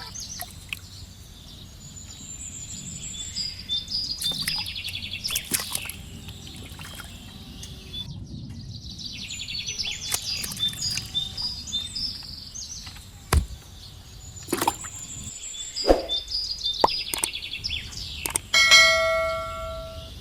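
Birds chirping and trilling in repeated short phrases, with scattered sharp clicks and knocks. Near the end a steady ringing tone with several pitches sounds for about a second.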